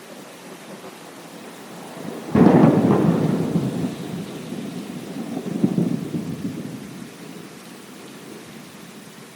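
Steady rain with a thunderclap: a sudden sharp crack a little over two seconds in, rolling into a rumble that swells again around the middle and fades away over several seconds.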